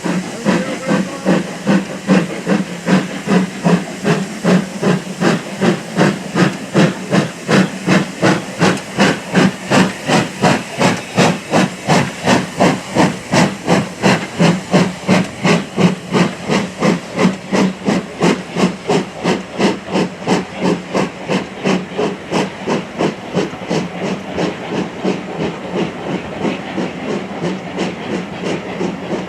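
Steam locomotive working under power, its exhaust chuffing in a steady rhythm of about three beats a second over hissing steam; the beats grow weaker near the end.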